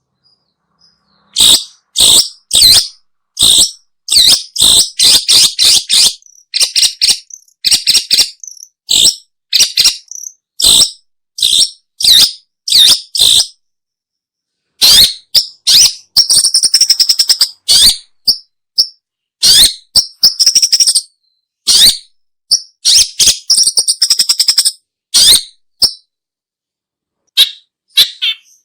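Long-tailed shrike (pentet/cendet) calling: loud, harsh, scratchy notes given in quick runs with short pauses, with stretches of rapid, buzzy chattering.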